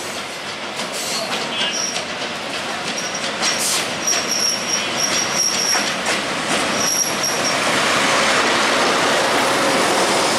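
Diesel-hauled passenger train pulling slowly into a station platform. A thin high squeal comes and goes from about three to seven seconds in. The rumble of the locomotive and wheels then grows louder as the engine passes close near the end.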